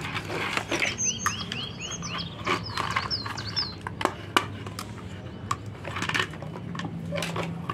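Small birds chirping in quick runs of short, repeated notes during the first few seconds, with scattered clicks and taps of plastic toy-helicopter parts being handled and fitted together.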